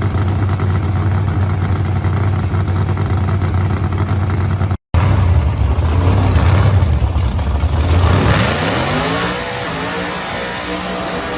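Gasser hot rod engines running loud with a low, steady rumble. After an abrupt cut about five seconds in, the engine note climbs in pitch as the car accelerates and grows quieter, pulling away.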